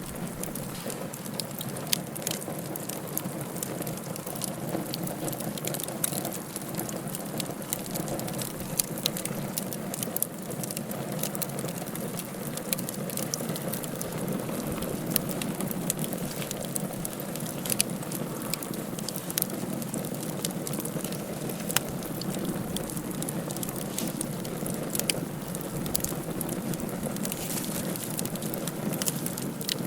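Wood fire burning in a fireplace, crackling with sharp pops at irregular intervals over a steady rushing background.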